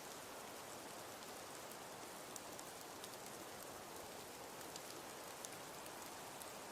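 Wood fire burning in a fireplace: a steady hiss with small crackles and pops scattered throughout, the sharpest about two and a half and five and a half seconds in.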